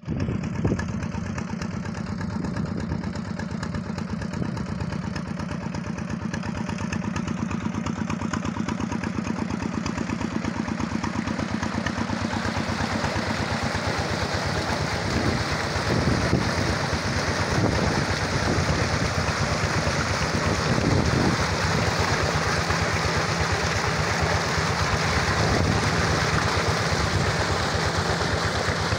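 Diesel engine running steadily with an even, rapid firing beat. About halfway through it gets a little louder and hissier.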